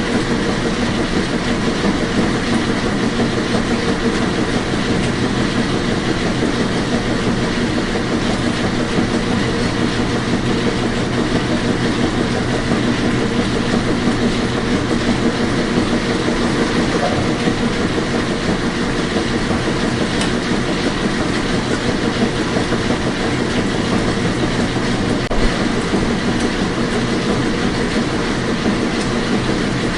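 Washing machine running: a steady, even churning noise with a faint constant hum, unchanging throughout.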